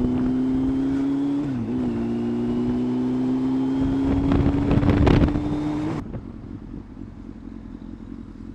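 Yamaha FZS600 Fazer's inline-four engine pulling steadily under throttle, its pitch rising slowly with a brief dip about a second and a half in, with wind buffeting the microphone around four to five seconds in. About six seconds in the engine note cuts off suddenly, leaving a quieter steady rumble.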